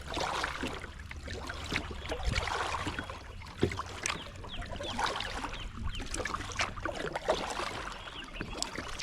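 Water splashing and dripping around a kayak, the sound of paddling, with scattered light clicks and knocks.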